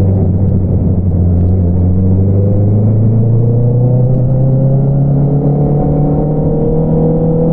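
2022 Honda CBR650R's inline-four engine running through an Akrapovič single-outlet exhaust, its pitch holding for about a second, then climbing slowly and steadily as the revs build.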